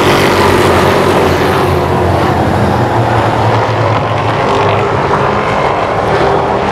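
Late model stock cars racing on the oval: the engines of the field run together in a steady, loud drone.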